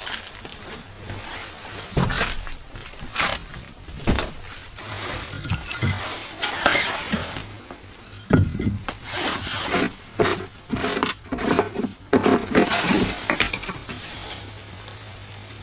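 Irregular knocking, scraping and clattering of things being handled, denser in the second half.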